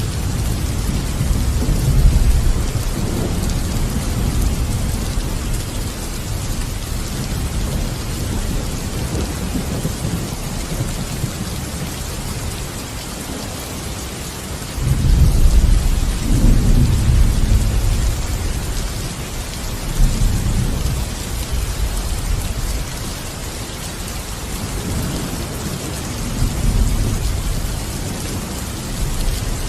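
Steady heavy rain with thunder rumbling, swelling loudest about halfway through and again briefly near the end.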